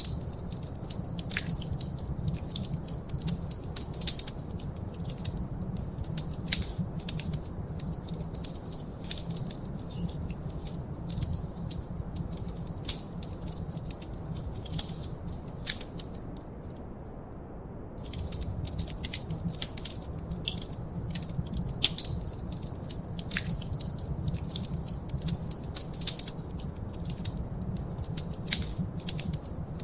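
Wood fire in a fireplace crackling, with dense irregular pops and snaps over a low steady rumble. The crackles briefly thin out a little past halfway.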